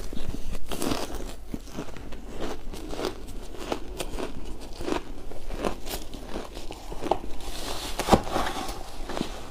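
Shaved ice being bitten and chewed: a quick string of short, crisp crunches, with the loudest crunch about eight seconds in.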